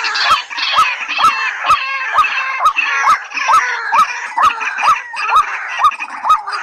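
Calls of white-breasted waterhen and watercock played as a continuous recording: a short hooked note repeating about twice a second, each with a sharp click, over a denser chatter of higher calls.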